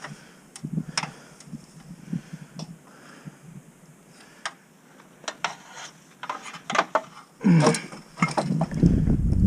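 Ice being knocked and broken, giving scattered sharp knocks and clinks, with a louder flurry of strikes about two-thirds of the way in. A low rumble begins near the end.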